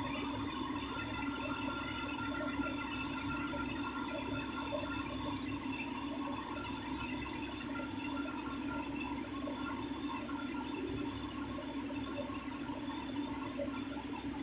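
Steady drone of a ship's machinery with a fluttering, churning sound over it, unchanging throughout.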